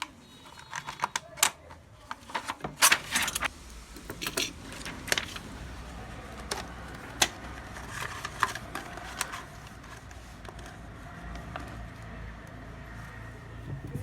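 Irregular metallic clicks and clinks of small metal parts and hand tools being handled, dense in the first few seconds and thinning out near the end, over a low steady hum.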